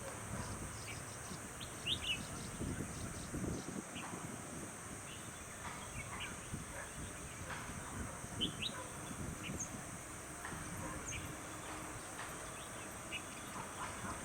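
Birds giving short, scattered chirps, a few sharper rising notes standing out, over a steady high-pitched hiss and a low rumble.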